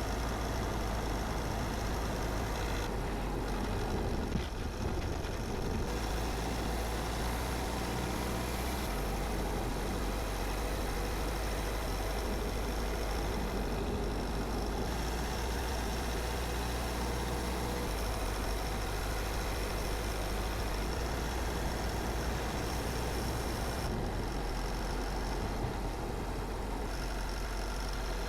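Car driving along a road: steady engine and tyre noise with a strong low rumble, and a small knock about four seconds in.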